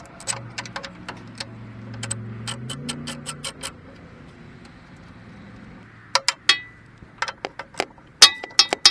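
Scattered metal clicks, clinks and knocks from tractor parts being handled while the radiator screen is worked loose, a few of the strikes ringing briefly. The knocks come thicker and louder in the last few seconds.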